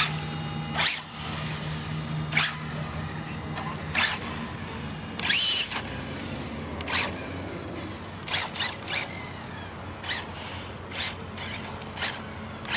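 Vaterra Glamis Uno RC buggy's electric motor whining in short bursts of throttle as it is driven, with a rising whine about five seconds in and falling ones as it slows; the car runs on a freshly rebuilt differential.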